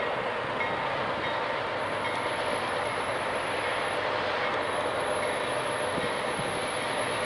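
Union Pacific diesel freight locomotives running as they approach around a curve at the head of a tank-car train, a steady drone of engines and wheels on the rails.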